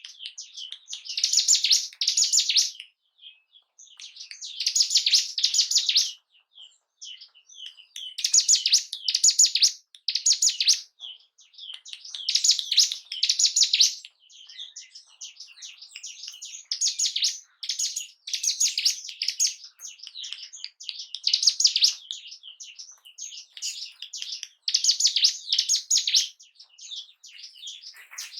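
Ciblek gunung, a prinia, singing: loud, rapid, high-pitched song phrases of a second or two, repeated every three or four seconds, with softer chirps between them.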